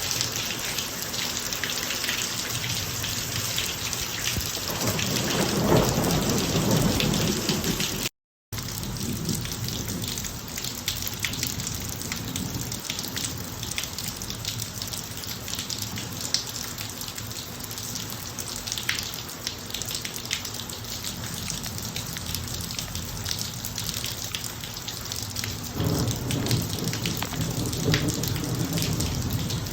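Steady heavy rain with many small drop hits. Thunder rumbles low about five seconds in and again near the end. Just after eight seconds the sound cuts out completely for a moment.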